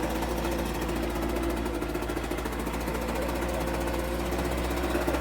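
Homelite UT08572 backpack leaf blower's 30cc two-stroke engine running steadily after a repair, with a fast, even firing buzz.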